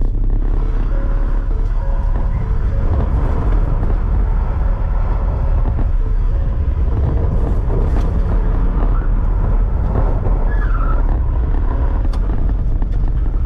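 Ford Taurus being driven: a loud, steady rumble of engine and tyre noise.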